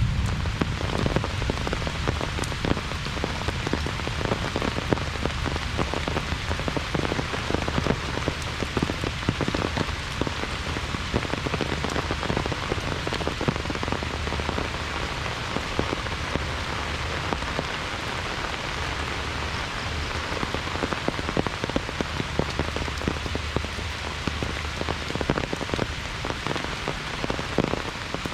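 Heavy rain falling steadily: a dense hiss of drops with a constant patter of individual drop hits, over a low rumble of wind.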